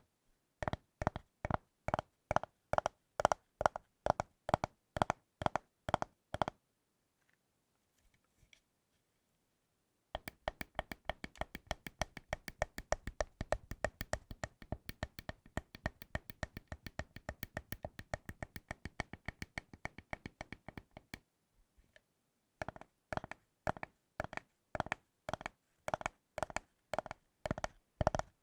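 Rhythmic tapping on a thick bar of chocolate, about three crisp taps a second, then a pause, then a faster, softer run of taps, then the slower tapping again.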